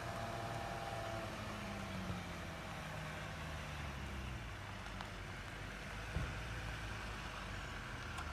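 Jeep Grand Cherokee's engine running at low revs, its note dropping a couple of seconds in, with a short knock about six seconds in.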